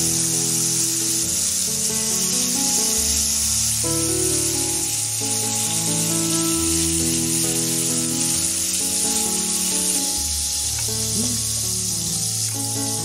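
Hot oil sizzling steadily in a pan as food fries, under background music.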